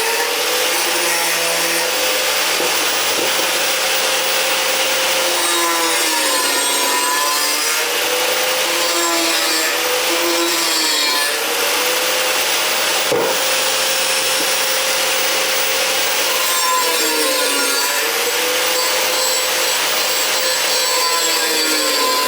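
Angle grinder cutting slots into a metal bar, a steady loud grinding hiss. The motor's pitch sags and recovers a few times as the wheel bites into the metal.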